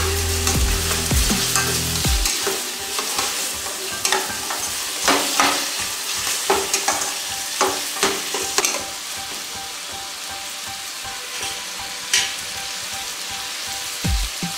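Onions, tomatoes and curry leaves sizzling in oil in a stainless steel kadai, while a steel spatula stirs them, scraping and clinking against the pan several times.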